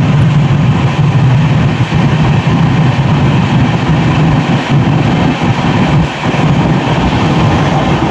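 Passenger train running through a tunnel: a loud, steady low rumble of the coaches on the rails.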